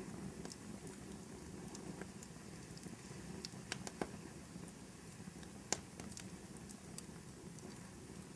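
Wood fire burning in a fireplace: a steady soft crackle with scattered sharp pops, a few clustered a little before the middle and the loudest about two-thirds of the way through.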